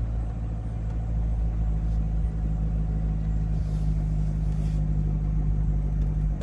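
Chevrolet C7 Corvette Stingray's 6.2-litre LT1 V8 running steadily at low revs with a deep, even exhaust note as the car moves off at a crawl, the engine not yet fully warm.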